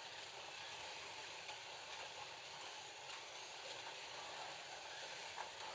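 Slot cars running flat out around the track: a steady, fairly quiet whirring hiss of their small electric motors and wheels on the plastic track, with a couple of faint clicks.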